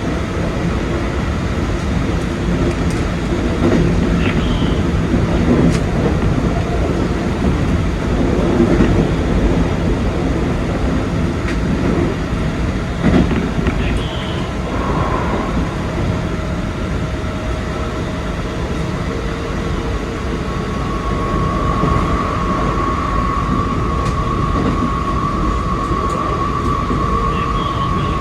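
Keikyu 2100 series train running, heard from the cab: a steady rumble of wheels on rail and running gear, with scattered clicks. About twenty seconds in, a steady high whine comes in and holds.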